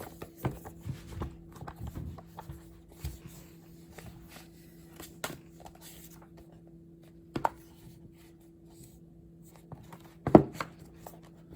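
Scattered taps and knocks of things being handled in a small room, with a sharp click about seven seconds in and a loud thump about ten seconds in, over a steady low electrical hum.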